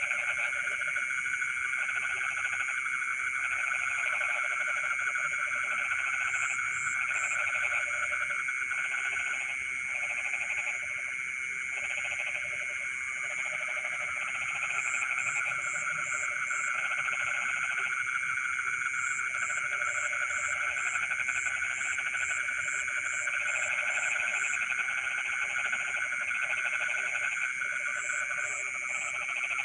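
Dense chorus of frogs calling, a steady trilling mass of voices with lower croaking calls repeating in short groups about every second. Runs of high, quick pips come and go over it.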